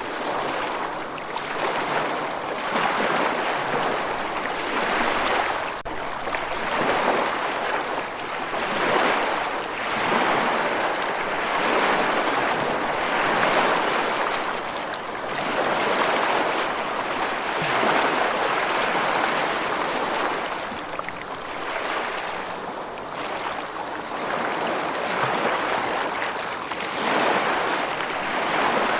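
Rushing water, a dense steady hiss that swells and eases in surges every couple of seconds.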